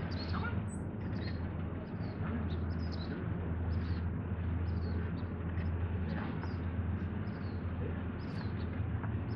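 Small birds chirping, with short high chirps coming every half second or so over a steady low hum.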